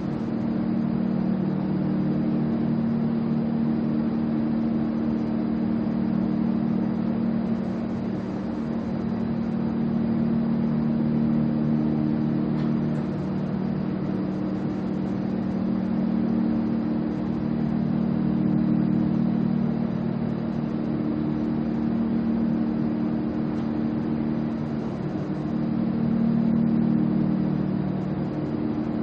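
A steady engine-like mechanical drone, its low pitch shifting slightly now and then.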